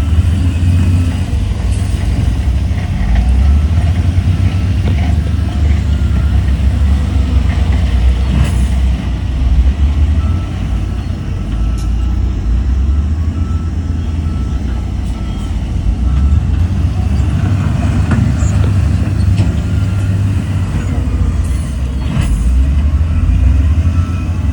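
Heavy diesel earth-moving machinery running steadily with a deep rumble, with a few sharp knocks now and then. A faint intermittent beeping is heard for a few seconds around the middle.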